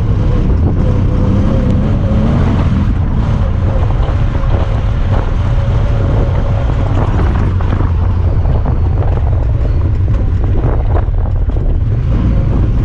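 Honda Talon 1000R side-by-side's parallel-twin engine running steadily under way off-road, with wind noise on the microphone. Short knocks and rattles come in, mostly in the second half.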